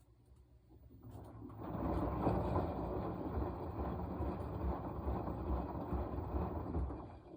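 Washing machine running its wash cycle: a burst of churning that starts about a second in, holds for about six seconds, and stops near the end.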